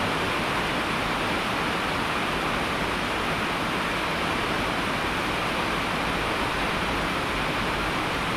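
Steady heavy rain: a dense, even hiss of falling water with no breaks or separate drops standing out.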